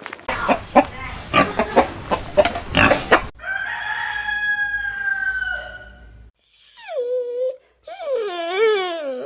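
Domestic chickens: about three seconds of rapid clucking, then one long crow that slowly falls in pitch. Near the end come two shorter pitched calls, the first sliding down and the second wavering up and down.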